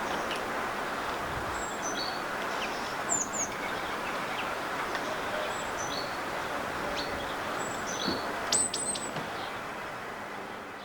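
Small garden birds calling: short high notes repeat every couple of seconds, with a few sharp, loud high chips about three seconds in and again near the end. Steady background noise runs underneath.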